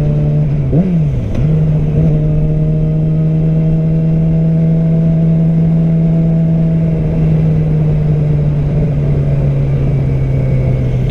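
Yamaha R6 inline-four engine under way: a quick rise and fall in revs about a second in, then a steady pitch at constant throttle. Wind rushes under the engine note.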